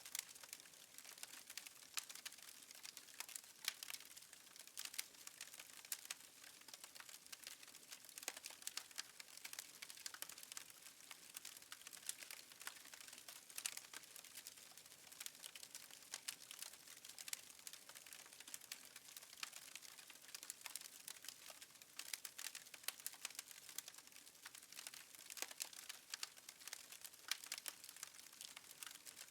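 Fireplace wood fire crackling faintly: a steady, irregular stream of small pops and snaps.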